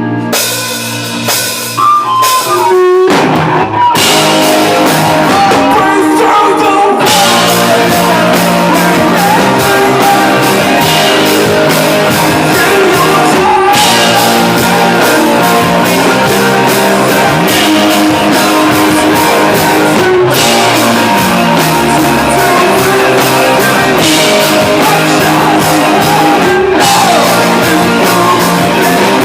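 Rock band playing live, loud: electric guitar chords ring out for the first few seconds, then the drum kit and full band come in about three seconds in and play steadily on.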